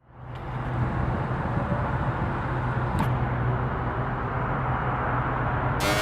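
Car engine idling steadily with a low hum, and a single click about three seconds in.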